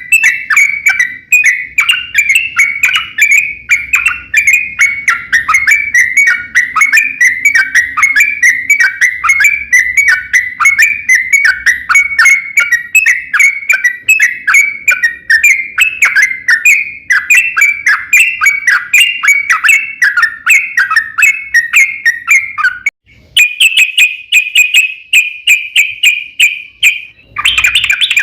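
Yellow-vented bulbul (trucukan) in full song: a long, fast run of repeated whistled chattering notes, several a second. It breaks off briefly near the end, then carries on in a denser, slightly higher run.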